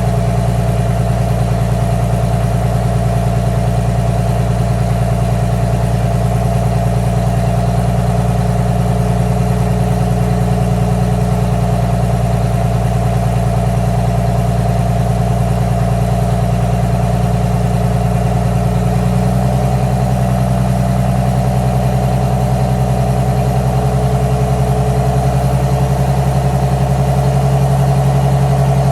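Detroit Diesel 6V92 TA two-stroke V6 diesel in a GM 4106 coach idling steadily. About 19 seconds in, the engine note shifts to a slightly different, somewhat louder idle.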